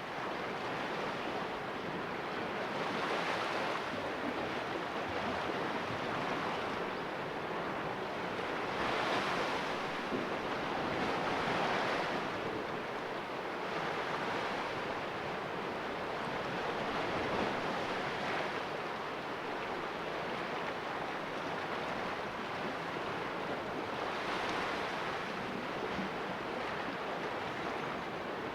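Sea waves washing against rocks in a small cove: a steady hiss of surf that swells every few seconds as individual waves break and splash.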